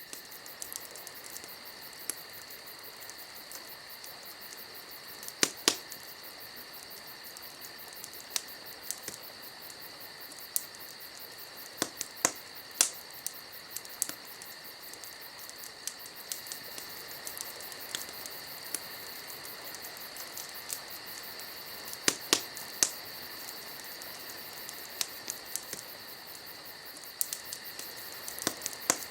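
Wood fire crackling, with scattered sharp pops that come every second or so, several much louder than the rest. Under it runs a steady chirring chorus of crickets.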